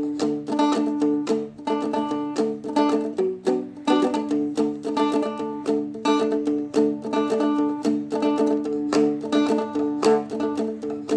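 Seagull Merlin, a dulcimer-style strumstick, strummed in a steady, quick rhythm with its drone strings ringing under the chords. The chord shifts briefly about three and a half seconds in.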